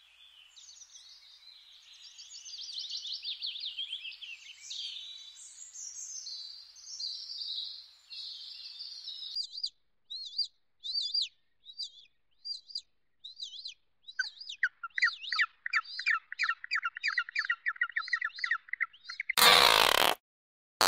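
Songbirds singing: a fast, high warbling trill for the first several seconds, then single high chirps about once a second, then a lower rapid trill with chirps over it. Near the end a loud, harsh burst of noise cuts in for under a second.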